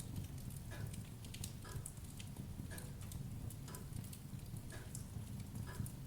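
Wood fire burning in a fireplace: scattered sharp crackles over a steady low rumble, with a soft regular tap about once a second.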